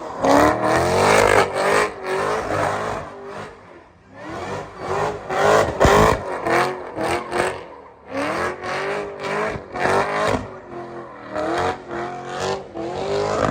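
Cadillac CTS-V's supercharged V8 revving in about four bursts, its supercharger whine rising and falling with each rev.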